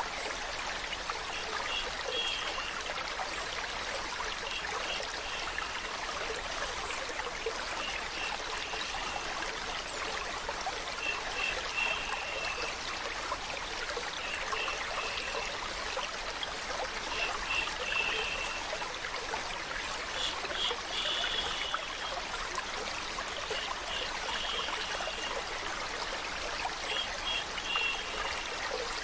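Steady flowing, trickling water, like a small stream, with clusters of short high notes recurring every three seconds or so.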